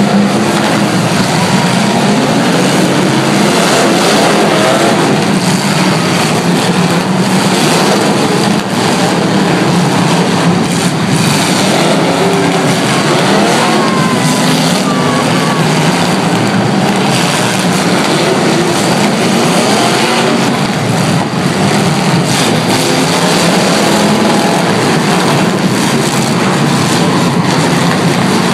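Several demolition derby cars' engines revving hard, their pitch rising and falling over a loud, constant din, with scattered knocks of impacts.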